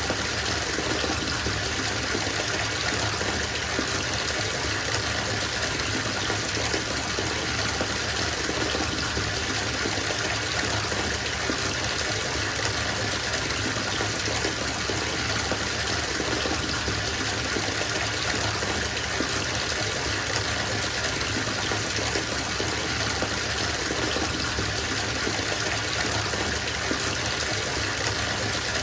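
Bath tap running into a filling bathtub: a steady, even gush of water with no change.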